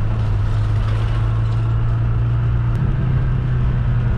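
Steady low drone of a car's engine and road noise while it is being driven.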